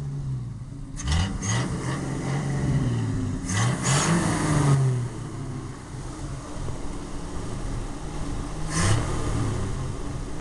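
1968 Ford F100's 240 cubic-inch inline-six engine, running on freshly installed ignition points, revved up three times from idle: about a second in, around four seconds in, and briefly near nine seconds. Each time it drops back to a steady idle.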